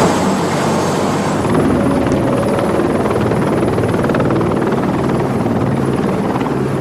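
Helicopter in flight: steady rotor and turbine noise with a fast rotor chop, cutting in abruptly.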